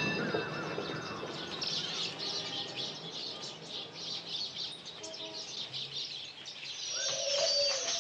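A chorus of many small caged birds chirping and twittering, filling in after the first second or so, with a lower squawking call near the end.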